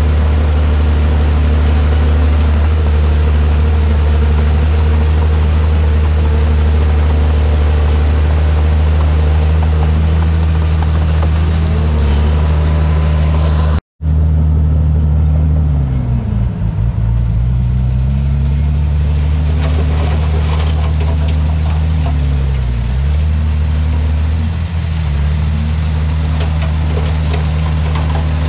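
Komatsu D51PX bulldozer's diesel engine running steadily, its pitch dipping and recovering several times as it takes load. A brief dropout about halfway through.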